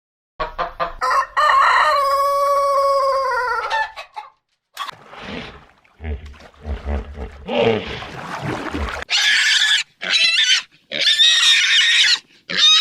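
Farm animal calls one after another: a rooster's long crow that drops in pitch at its end, then low grunting and several shrill squealing calls in short bursts.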